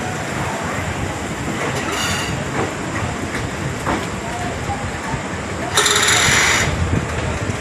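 Passenger train pulling slowly out of a station, heard from on board: the steady rumble of the coaches rolling. About six seconds in comes a louder, sharper sound lasting under a second.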